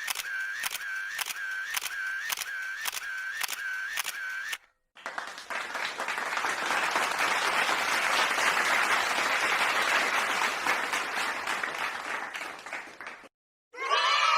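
Two sound-effect clips in a row. First, a click with a short tone under each, repeating about twice a second for four or five seconds, like a camera shutter firing over and over. Then, after a brief gap, applause that swells and then fades away.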